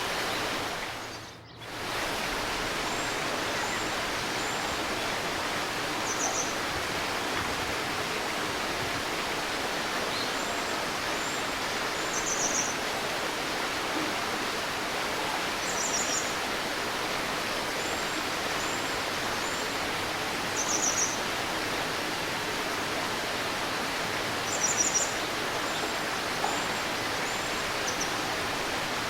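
Babbling river water rushing steadily, with small birds giving short high chirps in brief clusters every few seconds. About a second and a half in, the water sound briefly fades down and comes back.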